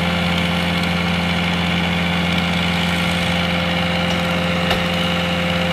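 An engine idling steadily, an even low hum that does not change in pitch or level.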